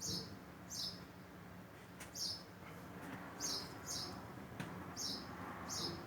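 A small bird chirping over and over, short high falling chirps about once a second, over a faint steady hum.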